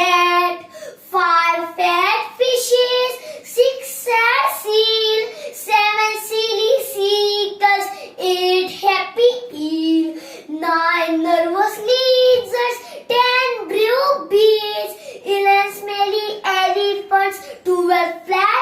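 A young child sing-song reciting a nursery rhyme in short, high-pitched phrases.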